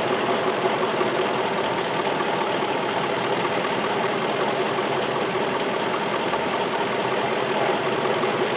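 2003 Infiniti M45's 4.5-litre V8 idling steadily. The engine is misfiring at random (code P0300), with cylinders 5 and 7 getting no coil signal.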